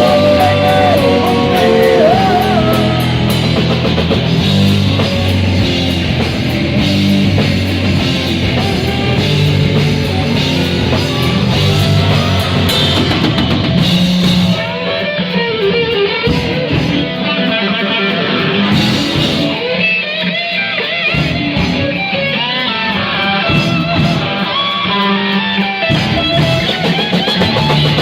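Live rock band playing an instrumental section: electric guitar lead with bending notes over bass and a drum kit. About halfway through the cymbals thin out for a few seconds, then come back in.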